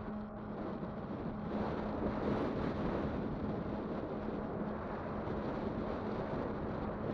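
Riding noise on a Kugoo Kirin V5 electric bike: wind buffeting the microphone over the rolling rumble, with a steady low hum. It grows a little louder about a second and a half in.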